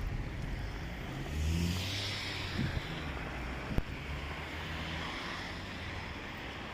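Road traffic: a car's engine and tyres swell as it passes about a second and a half in, over a steady low rumble of traffic. A single sharp click comes near the middle.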